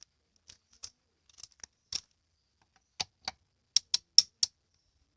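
Sharp, irregular metallic clicks of a hand torque wrench's ratchet and socket being handled and fitted, with a quicker run of clicks about four a second in the second half.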